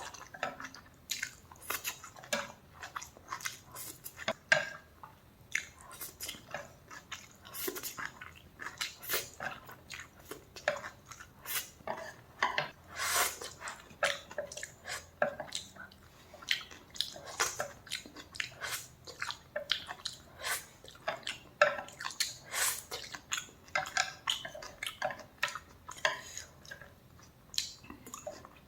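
Close-miked eating: a person biting and chewing food with many quick, irregular wet mouth clicks and smacks.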